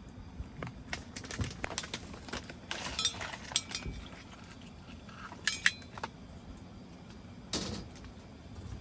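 Dishes and utensils clinking and knocking as they are handled, with a quick run of clinks about three seconds in, two sharp clinks a little past halfway, and a duller knock near the end.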